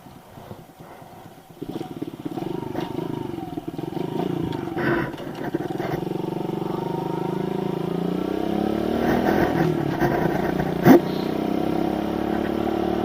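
Kawasaki KLX110 pit bike's small single-cylinder four-stroke engine running, coming in about two seconds in, its pitch rising and falling a little, with one sharp knock near the end.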